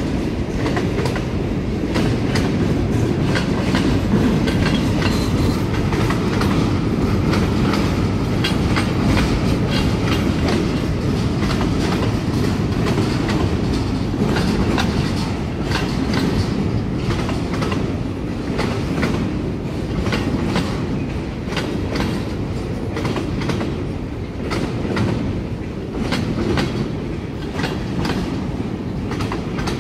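Freight train cars rolling past: a steady heavy rumble with the clickety-clack of wheels clicking over rail joints.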